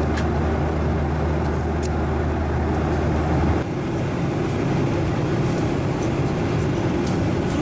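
Steady roar of a Boeing 737-900ER's engines and airflow, heard as cabin noise. A little under halfway through, a low hum drops out and the roar changes character abruptly.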